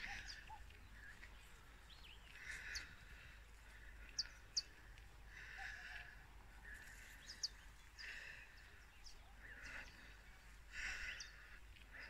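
Wild birds in a forest giving a few short, sharp high chirps, two together about four seconds in and another pair about seven seconds in, faint overall. Underneath, a soft swishing rustle comes back every second or so.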